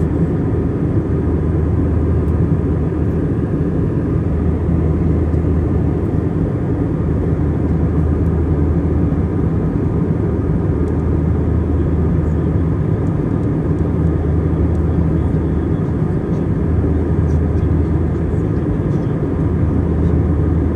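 Airbus A320-200 cabin noise heard from inside: a steady drone of the jet engines and rushing air, with a constant low engine hum underneath.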